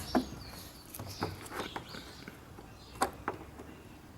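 Several short, light clicks and taps: a screwdriver working the plastic locking tab of the boost pressure (MAP) sensor's electrical connector to unlock it.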